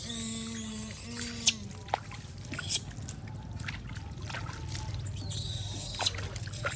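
Water spraying from a shower hose in two loud hissing bursts, one at the start and one about five seconds in, with splashing and small knocks in between. A short pitched sound rings out through the first burst.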